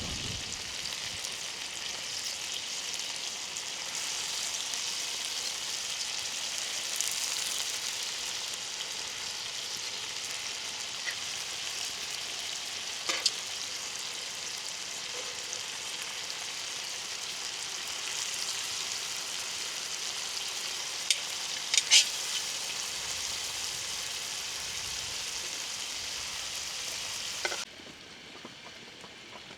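Chicken frying on a saj, a steady sizzle with a few sharp clicks partway through. The sizzle drops abruptly to a much quieter level shortly before the end.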